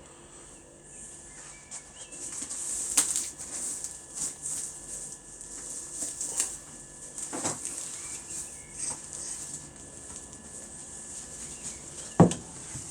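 Packing material rustling and crinkling as it is handled and folded, with scattered light knocks and one sharper knock near the end.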